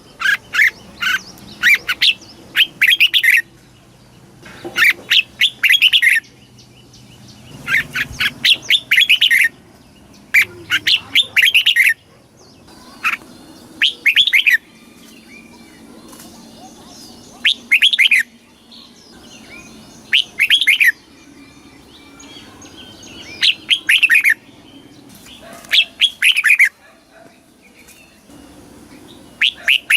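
Red-whiskered bulbul singing, loud quick warbled phrases of a second or two repeated every few seconds, with faint twittering of other birds between them.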